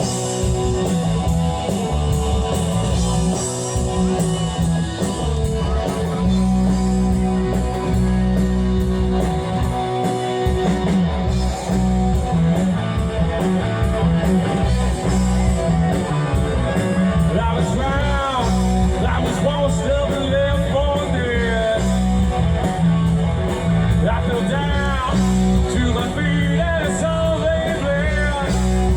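Live rock band playing loudly, with guitar, bass and drums; a singer's voice comes in about two-thirds of the way through.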